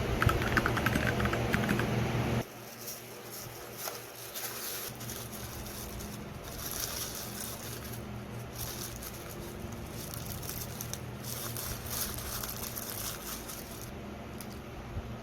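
Typing on a computer keyboard for about two seconds, then a sudden cut to a quiet room with faint, irregular light ticking and rustling.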